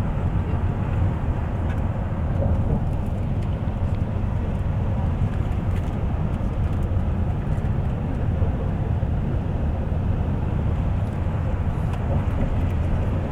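Steady low rumble of a bus in motion, heard from inside the passenger cabin: engine and tyre noise running evenly without change.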